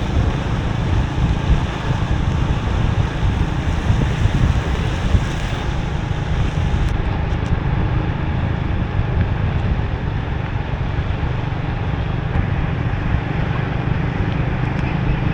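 Steady wind rush on a motorbike-mounted microphone over the running motorbike and surrounding traffic, riding in the rain.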